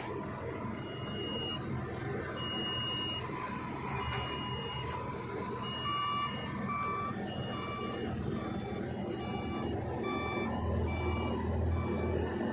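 Reversing alarms on heavy construction machinery beeping repeatedly, about once a second, over steady diesel engine noise; about halfway through, a second, lower-pitched alarm starts beeping alongside the first.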